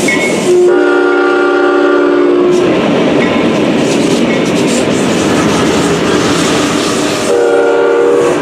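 Train passing with a steady rumble and rail noise while its locomotive air horn sounds a multi-note chord twice: a long blast of about two seconds near the start and a shorter one near the end.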